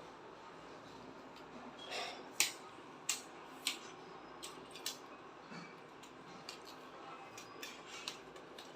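Budget tripod being handled, its three-section telescoping legs extended: a series of sharp clicks and light clatter from its leg locks and joints, the loudest few between about two and five seconds in.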